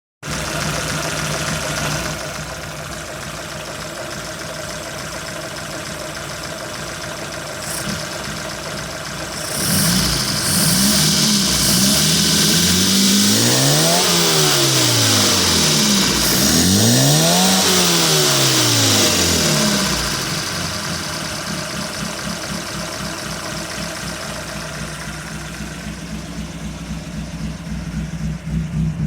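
Austin EB65 engine idling steadily, then revved up twice, its pitch rising and falling each time, with a loud hiss while it runs faster, before settling back to idle.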